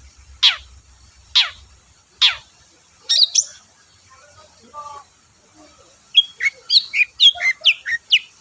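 Long-tailed shrike (cendet) singing. Three sharp falling notes come about a second apart, then a short burst. After a pause, a fast run of varied short chirps comes near the end.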